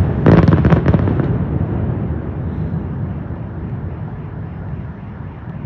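A fireworks salute: a rapid cluster of crackling bursts in the first second, then a low rumble that slowly fades.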